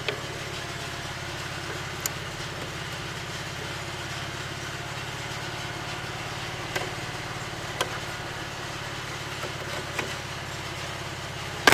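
A steady, low, engine-like hum with a few faint clicks.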